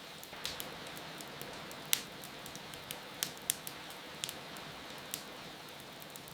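Wood fire crackling with scattered sharp pops, the loudest about two seconds in, over a steady hiss of rain.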